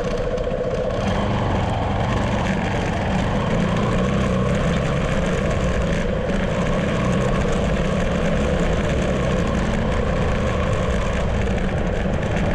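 A steady engine drone that keeps an even level.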